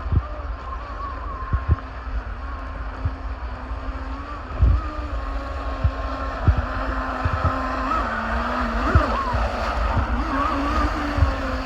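Remote-control jet boat running on the water, its motor giving a steady whine that wavers up and down in pitch about eight to ten seconds in as the throttle changes. Low thumps of wind on the microphone come and go under it.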